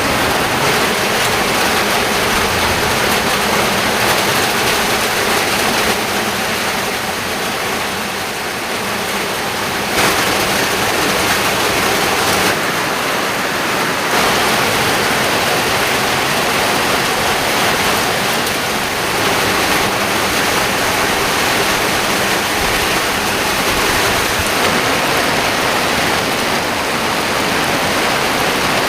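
Heavy rain pouring down steadily as a dense, even hiss, with one sharp tap about ten seconds in.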